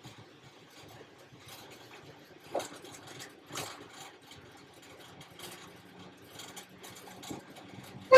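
Class 31 diesel-electric locomotive's English Electric engine running, heard faintly as a steady low hum from inside the cab, with a few scattered knocks and clicks, the loudest a little over two and a half seconds in.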